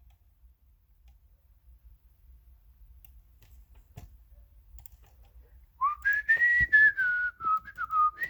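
A few faint clicks over several seconds, then a person whistling a short tune: one clear note that rises, then wanders gently down in pitch, with more clicks among it.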